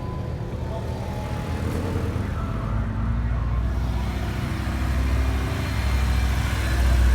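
Car engine and exhaust rumbling at a car meet, the low rumble growing steadily louder toward the end.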